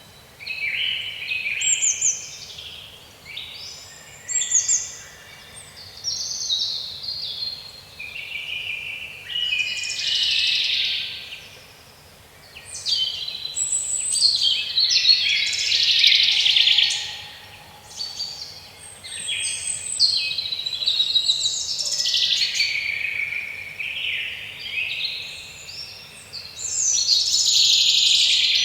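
Several songbirds singing at once, overlapping chirps and warbling phrases in a dense chorus that swells and dips every few seconds.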